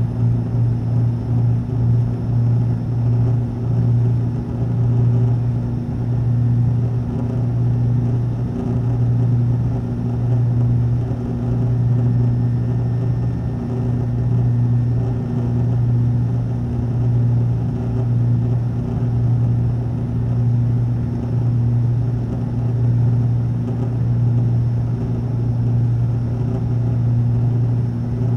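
Cabin drone of a twin-engine ATR turboprop airliner in flight: a loud, steady low propeller hum that swells and fades every second or two as the two propellers beat against each other.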